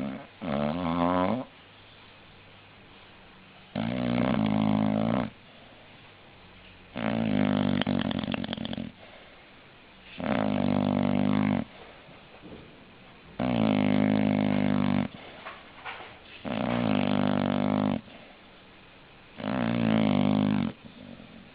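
English bulldog snoring: seven long, pitched snores about three seconds apart.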